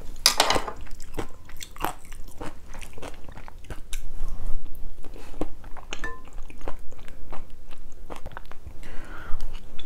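Close-miked chewing and mouth sounds of a person eating abalone rice porridge topped with shredded braised beef: many short clicks and smacks at an irregular pace.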